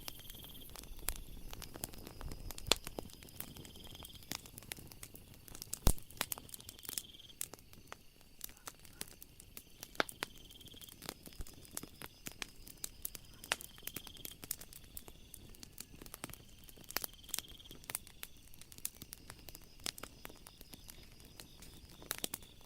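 Wood fire crackling, with frequent sharp pops and snaps, one louder pop about six seconds in. Behind it, night insects call: a steady high buzz and a short trill repeating about every three and a half seconds.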